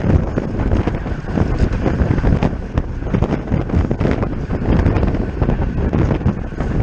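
Wind buffeting the microphone of a camera riding along on a racing bicycle at speed, a steady, rumbling rush that is heaviest in the low end.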